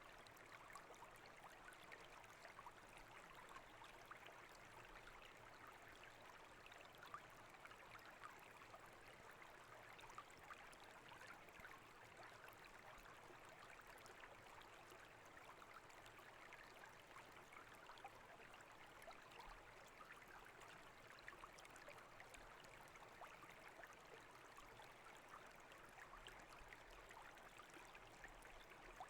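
Faint, steady flowing and trickling of brook water.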